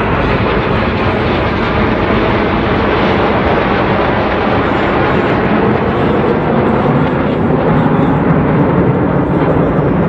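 Red Arrows' BAE Hawk T1 jets flying the display, their jet engines making a loud, steady roar.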